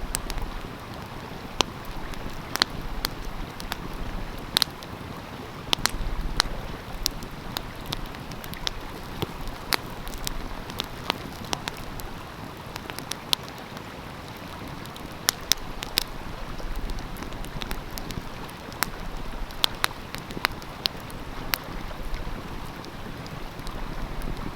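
Wood fire crackling with irregular sharp pops over the steady rush of a flowing stream, with low wind rumble on the microphone now and then.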